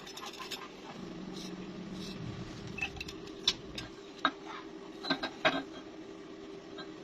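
Metal pieces clinking and knocking against each other, a few sharp strikes in the second half, over a steady low hum.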